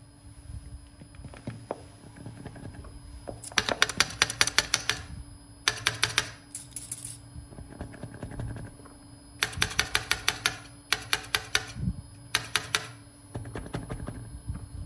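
Electric coffee grinder with 98 mm burrs running with a steady hum and whine, broken by several bursts of rapid crackling clicks, typical of coffee beans being cracked between the burrs.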